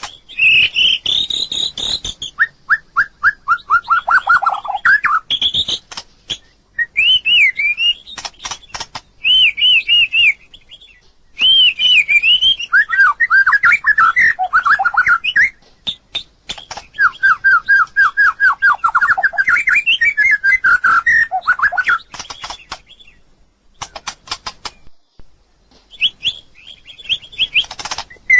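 White-rumped shama singing a varied song: clear whistled phrases alternating with fast runs of repeated notes, with short pauses between phrases.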